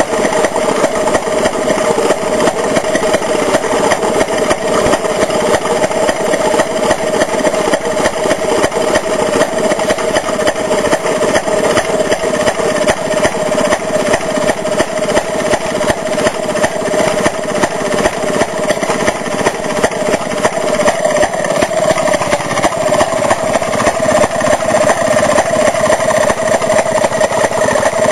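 Antique Maytag washing machine two-cycle engine running steadily, a rapid, even string of firing beats with no change in speed.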